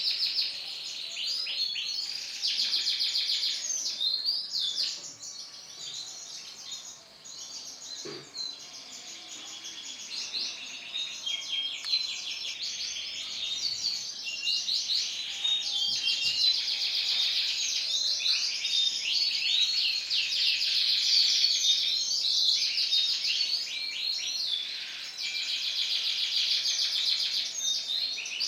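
Male canary singing a long, continuous song of rapid trills and rolling warbled phrases, softer for a few seconds about a third of the way in.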